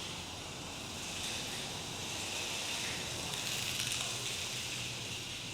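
Steady, fairly quiet hissing of a 1/64-scale LDARC R02 mini RC car's small electric motor and rubber tyres as it drives over an uneven floor, swelling a little as the throttle changes.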